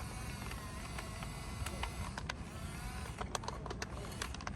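Plastic toy construction vehicles clicking and clattering as they are handled, with a string of sharp clicks in the second half over a low steady rumble.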